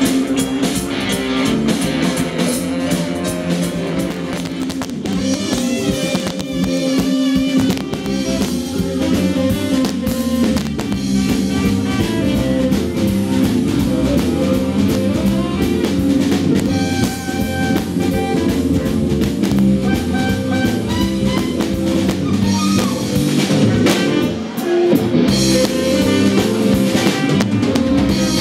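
Rock band playing live, with a drum kit beating steadily under electric guitar. There is a short break in the bass and drums about 24 seconds in.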